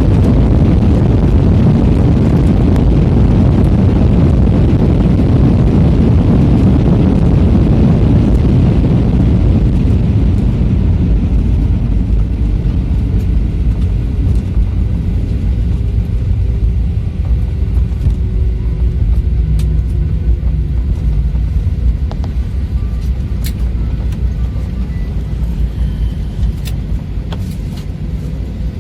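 Airliner heard from inside the cabin on its landing roll: a loud roar of engines and rushing air that fades from about ten seconds in as the jet slows, with a faint falling whine. It settles to a lower rumble, with a few small clicks near the end.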